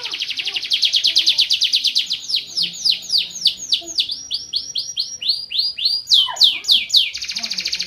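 Van Hesterling canary singing a continuous song: a fast, even trill, then from about two seconds in a series of downward-sweeping whistled notes a few per second, then a quicker run of sweeps and a fast trill again near the end.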